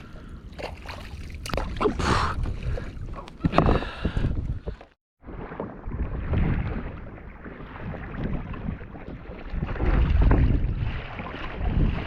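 Wind buffeting the microphone and water sloshing around a kayak, an uneven low rumble. It cuts out abruptly about five seconds in and resumes.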